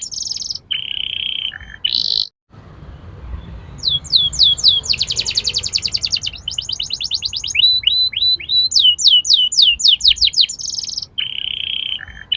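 Domestic canary singing loudly: runs of quick down-slurred whistles, buzzy held notes and fast rolling trills. The song breaks off briefly about two seconds in, then resumes.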